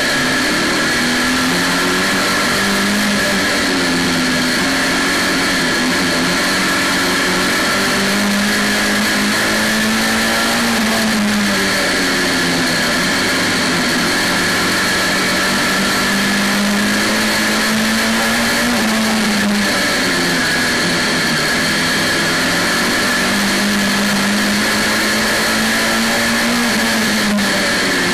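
Saloon stock car's engine running under race load, heard from inside the cockpit, its pitch rising and falling every several seconds as the car goes round the oval. A steady high whine sits over it.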